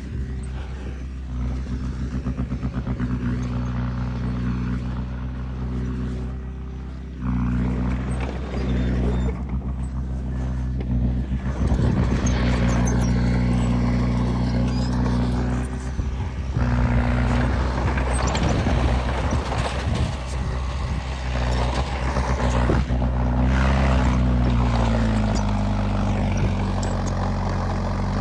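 Diesel engine of heavy earthmoving equipment running under load, its pitch shifting several times as the throttle changes. Clattering noise rides over it through the middle part.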